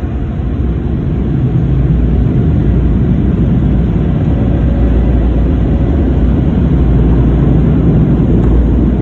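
Automatic car wash machinery running: a loud, steady, low rumble that builds slightly in the first couple of seconds.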